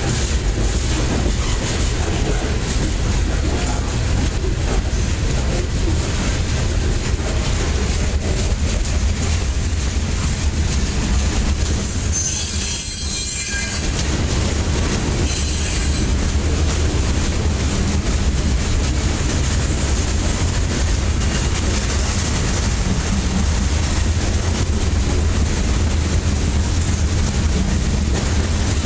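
Freight cars of a long train rolling past close by: a steady low rumble of steel wheels on the rails, with brief high-pitched wheel squeals a little before halfway.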